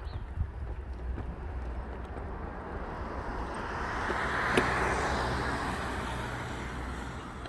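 A vehicle passing by: a rushing noise that swells to its loudest about four to five seconds in, then fades away.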